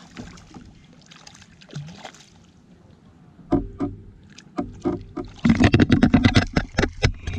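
A freshly caught catfish thrashing on a kayak, with a run of knocks and clattering against the plastic hull. The knocks start about halfway through and come thick and loud near the end.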